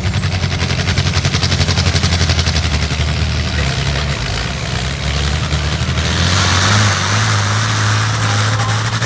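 Tractor engine working hard under load during a pull, its exhaust pulses fast and even. The engine note shifts a few seconds in and then settles to a steadier, slightly higher pitch.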